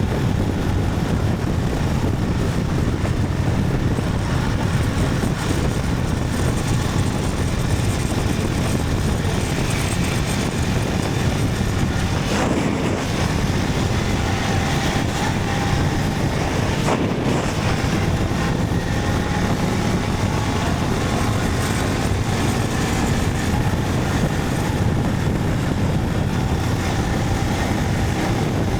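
Motorcycle riding at a steady speed: engine running steadily under a constant rush of wind and road noise.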